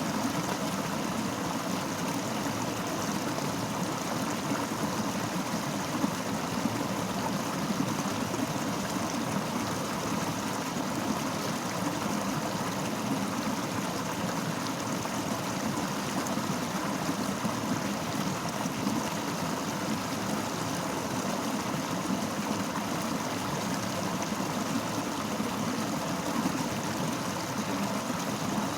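Fast-flowing river rushing and babbling over rocks, a steady even wash of water noise with no breaks.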